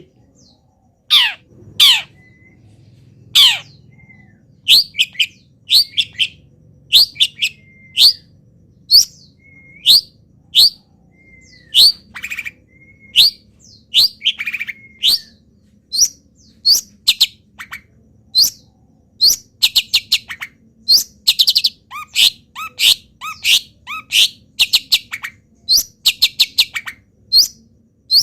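Long-tailed shrike singing loudly, its song full of mimicked wild-bird calls. It gives a string of sharp calls that each sweep down in pitch, and from about twenty seconds in, rapid rattling trills.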